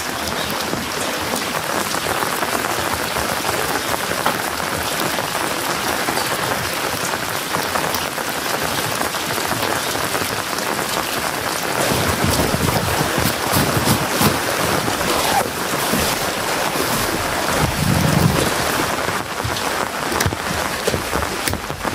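Steady rain falling, with low rumbles about twelve and eighteen seconds in.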